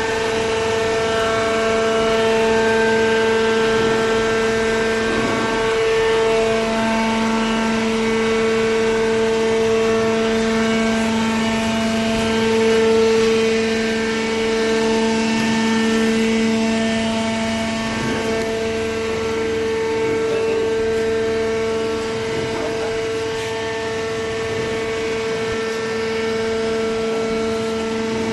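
Open-ended horizontal cardboard baler's hydraulic power unit running: a steady, even machine hum with a constant whine.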